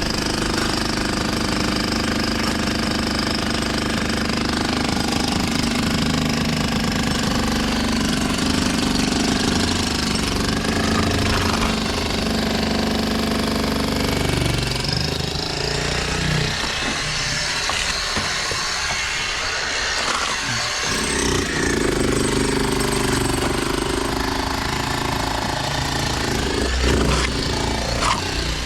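Construction machinery working: a rapid, continuous hammering over a running engine. The hammering stops for a few seconds a little past the middle, then starts again.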